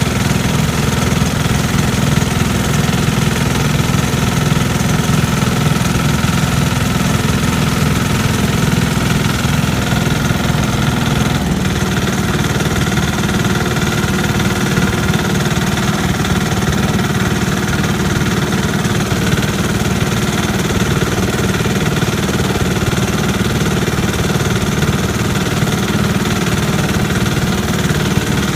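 Small garden tractor engine running steadily, its note shifting slightly about a third of the way through.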